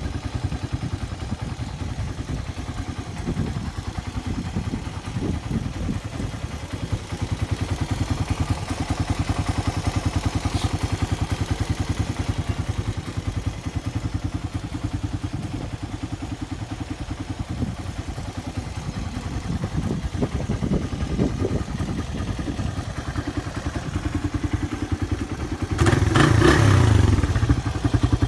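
Suzuki Raider 150 single-cylinder engine running with a steady, rapid beat, getting louder near the end.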